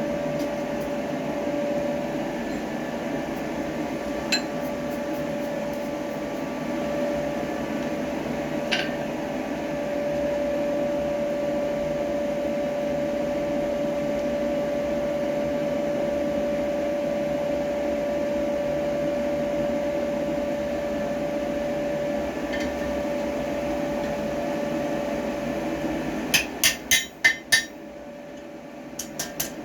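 A small electric motor running at a steady speed with a steady hum, with two light metal clinks early on. Near the end the motor stops and a quick run of about half a dozen sharp hammer blows on metal follows, typical of work on a rivet hole in the tongs.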